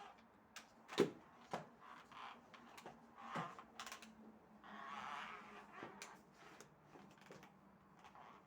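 Household cleaning by hand: scattered light knocks and clicks of objects being picked up and set down, the sharpest about a second in, and a soft rustling swish of wiping or dusting midway.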